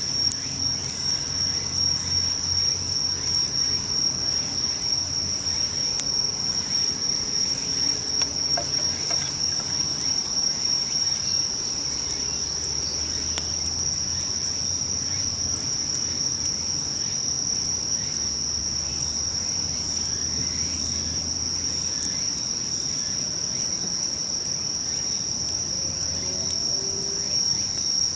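Insects trilling continuously at one high pitch, steady and unbroken, with a few faint clicks underneath.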